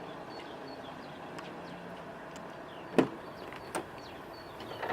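Steady outdoor background noise with faint high chirps, broken by two sharp clicks about three seconds in, the second under a second after the first.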